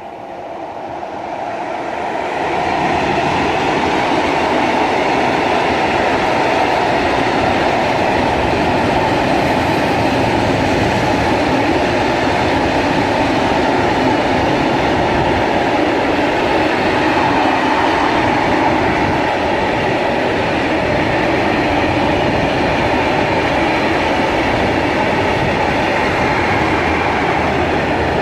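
Freight train passing close by on the rails. The noise builds over the first few seconds as it comes near, then holds steady and loud as the wagons roll past.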